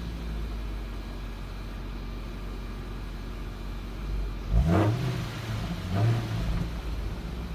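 Audi A8 D3's 4.2-litre V8 exhaust idling steadily, then two quick throttle blips past halfway: a sharp rev that rises and falls, then a smaller one about a second later.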